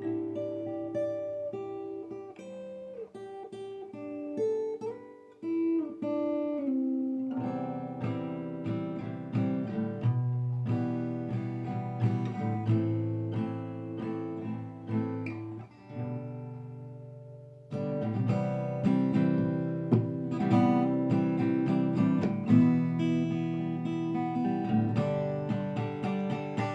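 Acoustic guitar playing chords without singing. It thins and nearly stops about two-thirds of the way through, then comes back in fuller.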